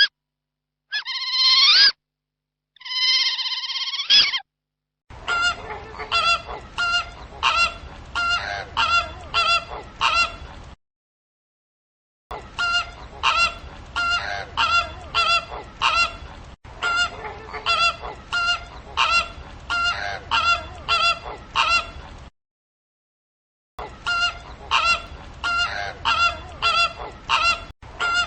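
Geese honking over and over, about two honks a second, in three stretches separated by short silences. Three drawn-out, high animal calls come before the honking in the first four seconds.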